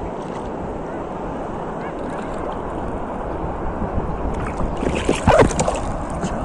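Sea surf and wind buffeting the microphone, a steady rushing noise, with a louder burst of sharp sounds about five seconds in.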